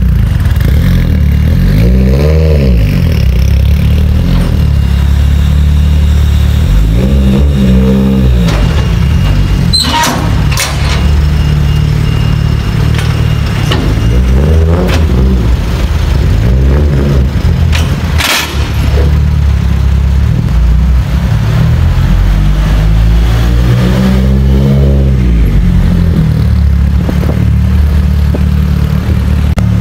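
Mitsubishi Lancer Evolution IX Wagon's turbocharged four-cylinder, tuned to a claimed 1009 hp, running loud and low and revved up and back down about five times. A few sharp cracks stand out between the revs.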